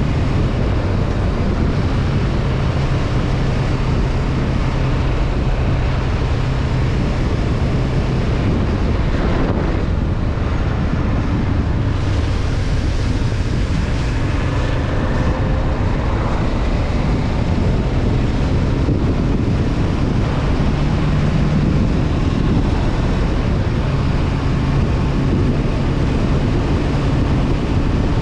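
Honda CB500F's parallel-twin engine running at a steady cruise, mixed with wind rushing over the microphone. The engine note eases for several seconds in the middle, then comes back.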